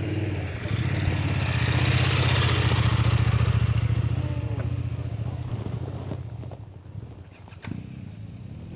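BMW GS adventure motorcycle's boxer-twin engine pulling under load on a rough trail. It grows louder over the first couple of seconds, holds, then eases off and fades after about four seconds.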